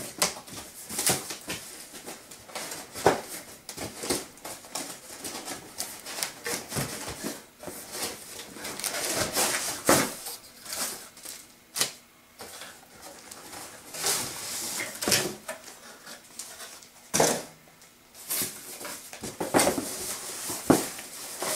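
A cardboard box and its packaging being handled and opened: irregular rustling, scraping and sharp knocks.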